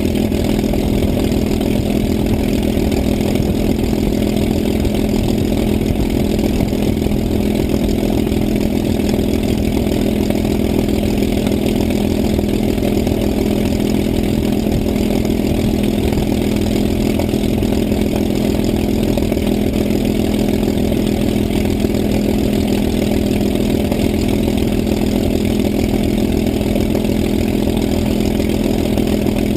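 An engine running steadily at a constant speed: an unbroken drone with a strong low hum and no change in pitch or level.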